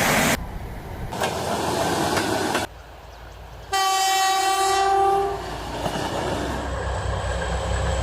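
Rumble of a passing diesel passenger train, broken by abrupt cuts, then about four seconds in one horn blast from a 2M62 diesel locomotive, a single steady tone lasting about a second and a half, with the train's rumble continuing after.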